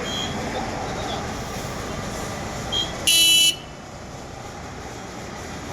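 A vehicle horn gives one short, loud toot about three seconds in, lasting about half a second, with a brief fainter beep just before it. Steady engine and road noise continues underneath.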